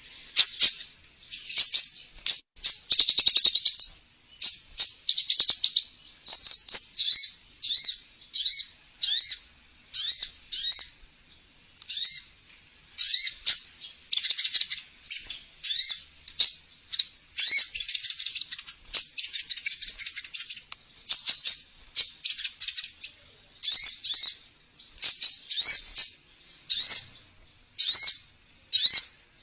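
Sunbird song (sogon, korlap or konin): rapid, high-pitched chirping and trilling phrases, one after another about a second apart. It is a 'master' lure recording meant to prompt caged birds that have stopped singing to start.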